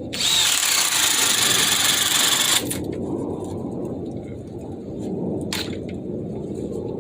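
Ridgid 18V brushless subcompact drill driver running at speed 1 under load for about two and a half seconds, then stopping suddenly, with a brief second burst near the end; the stop is taken by the owner for a safety shutoff that protects the drill.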